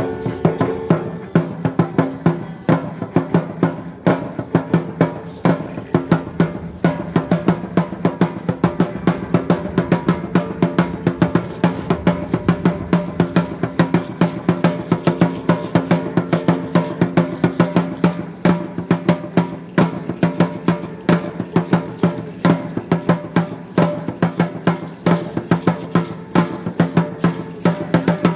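Aztec dance drumming: a large upright drum, the huehuetl, beaten in a steady fast rhythm of about three strokes a second, its low ringing tone sustained beneath the strokes.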